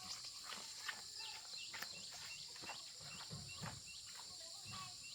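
Birds chirping in short, repeated calls, a few each second, over a steady high hiss.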